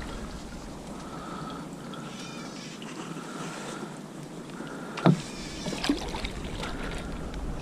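Kayak being towed by a hooked snook into overhanging branches: a steady wash of rain and water noise with an on-and-off high whine, and a sharp knock about five seconds in, with a lighter one just after.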